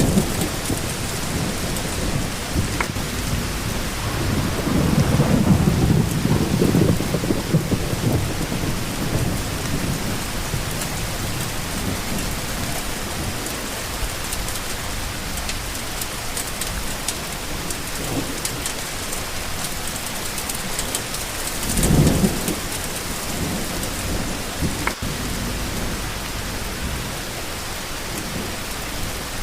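Steady rain falling, with low rumbles of thunder: a longer roll about four seconds in and a short, sharper clap about three quarters of the way through.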